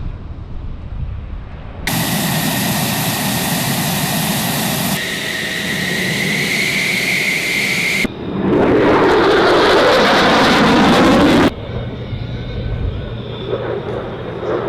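F-16 fighter jet engines running loud, heard in several abruptly cut stretches: a jet roar with a high whine that rises slightly in pitch, then a louder roar that stops suddenly, leaving a lower rumble.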